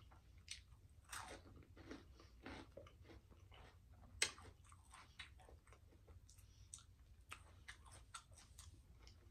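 Faint close-miked chewing of a mouthful of food: soft, irregular wet mouth clicks and smacks, with one sharper click about four seconds in.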